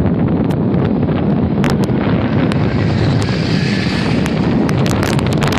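Heavy wind buffeting the microphone in a steady low rumble, with many sharp clicks and rattles through it, more of them in the second half.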